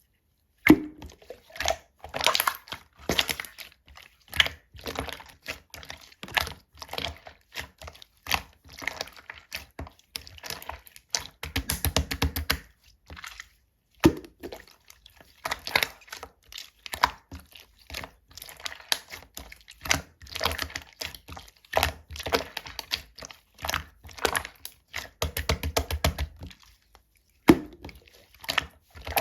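Clear slime being squeezed and kneaded by hand: a dense run of small clicks and pops as trapped air bursts, with a couple of brief pauses.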